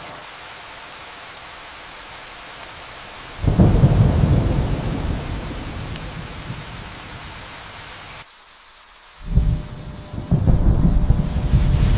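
Steady rain with thunder rumbling: a low rumble breaks in suddenly about three seconds in and fades over the next few seconds. After a brief abrupt drop in the sound, thunder rumbles again near the end.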